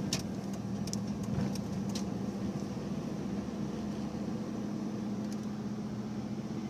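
Steady engine and road hum heard from inside a moving car's cabin, with a constant low drone and a few faint clicks in the first couple of seconds.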